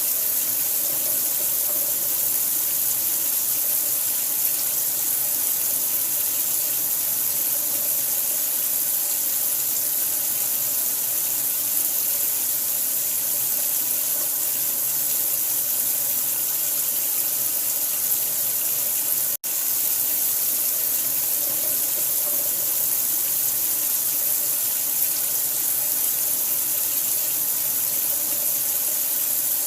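Water running steadily in a continuous hiss, strongest in the high end. It cuts out for an instant about 19 seconds in.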